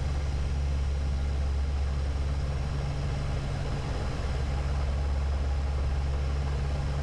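Steady low drone of a de Havilland Dash 8's twin turboprop engines and propellers, heard inside the cockpit on final approach.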